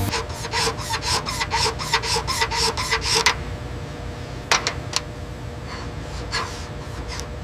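Rasping scrape strokes, about five a second for roughly three seconds, then a handful of single strokes spaced well apart, over a steady low hum.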